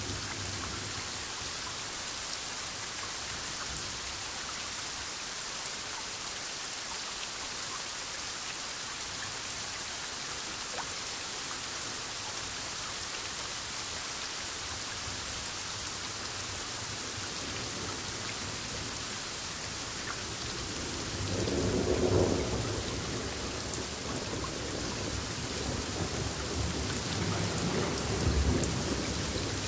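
Steady heavy rain falling, and about two-thirds of the way through a roll of thunder builds up and rumbles on, with another loud peak near the end.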